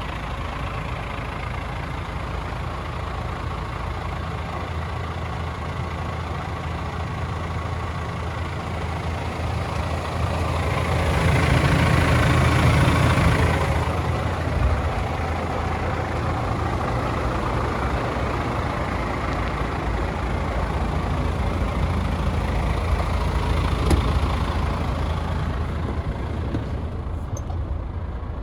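Paccar 450 bhp Euro 6 diesel engine of a DAF CF tractor unit running at idle, a steady low drone. About ten seconds in it grows louder for a few seconds, then settles back.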